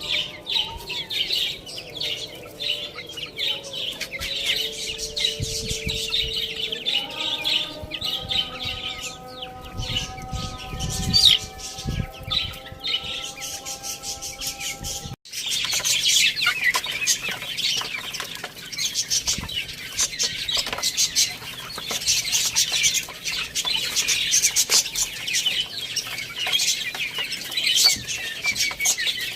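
Many small birds chirping in a dense, continuous chatter of quick high chirps, with an abrupt cut about halfway through. In the first half, a few steady held tones sit underneath.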